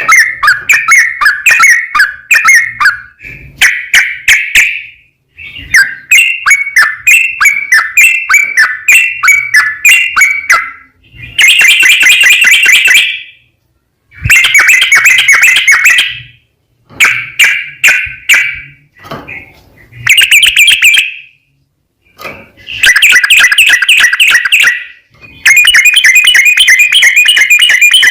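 Yellow-vented bulbul (trucukan) singing loud, bubbly, rapid song phrases in repeated bursts of a few seconds with short pauses between them. This is the long-running 'ropel' song used as a lure to set other trucukan singing.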